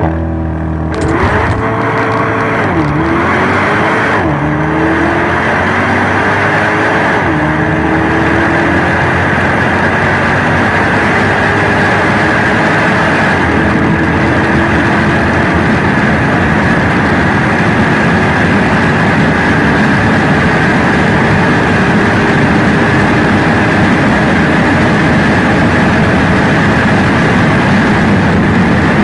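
A car engine revving up and down a few times, then running hard for a long stretch with a loud, dense rush of noise and its pitch slowly climbing.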